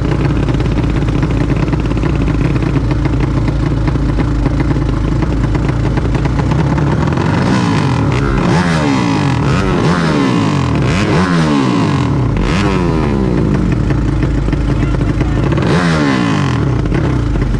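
Drag-race motorcycle engines running at high revs, first a steady drone, then from about halfway in a series of rising revs as the bikes accelerate up through the gears, with one more rising rev near the end.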